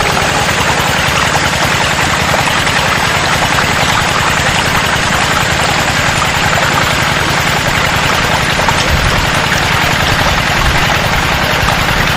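Small motor of a homemade mini water pump running steadily, with a fast even rattle.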